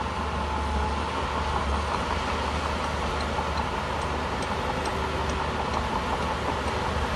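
Shantui bulldozer's diesel engine running steadily under work, a constant low drone with mechanical noise over it.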